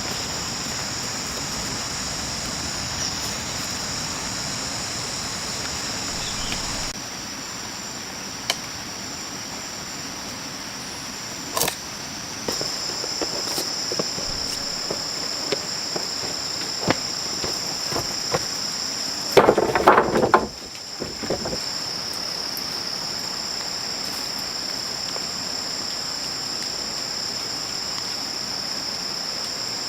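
Rainforest insect chorus: a steady, high-pitched drone of cicadas or crickets, with a few sharp knocks scattered through it and a louder burst of noise lasting about a second, some twenty seconds in.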